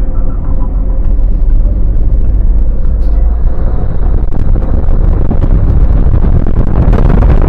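Lada Niva Legend's 1.7-litre four-cylinder engine running as the car drives, with a loud, steady low rumble of engine and road noise.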